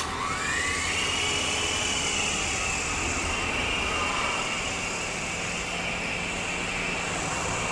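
Small coreless DC motors of a homemade remote-control helicopter spinning up, a whine rising in pitch over about a second, then holding a steady high whine with a rushing hiss.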